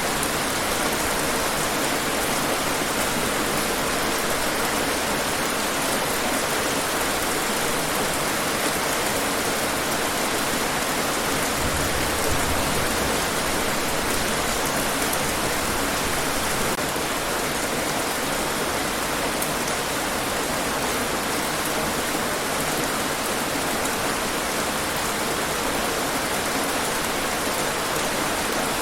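Steady rain falling: an even, unbroken hiss with faint scattered drop ticks, holding level throughout.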